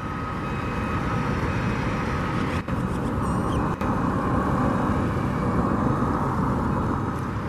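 Steady road traffic noise, an even rumbling hiss of passing cars, with a faint steady tone in it and a brief high chirp a little after three seconds.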